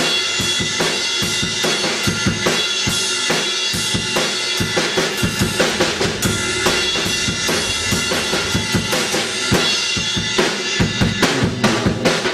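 Upbeat backing music built on a drum kit, with a steady beat of bass drum and snare over sustained instrument tones. Near the end there is a quick run of drum hits.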